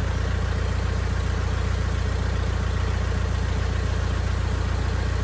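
A car engine idling steadily, with an even low hum and a fine rapid pulse.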